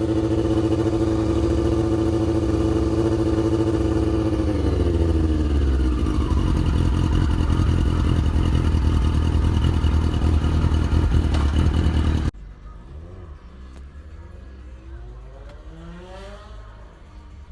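A motorcycle engine running at steady revs, then dropping in pitch about five seconds in and carrying on as a low rumble. It cuts off suddenly about twelve seconds in, leaving a much quieter background with faint gliding tones.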